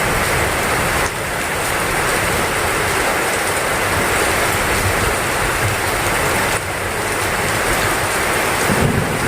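Heavy rain falling steadily: a dense, even hiss of downpour, with a brief low rumble near the end.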